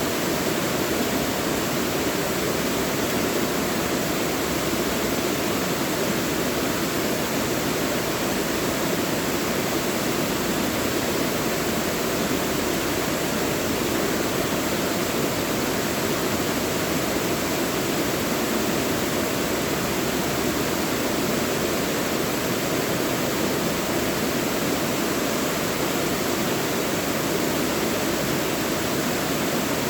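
Mountain valley stream flowing steadily, an even rushing wash of water with no breaks or changes.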